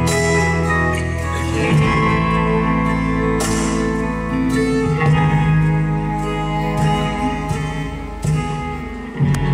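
Live band playing an instrumental passage with no singing: guitars strumming and picking over held chords.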